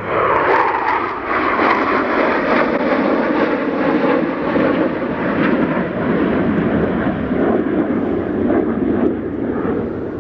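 RAF Panavia Tornado GR4 jets flying past, their twin RB199 turbofan engines making loud, steady jet noise, with a falling pitch in the first second and easing slightly near the end.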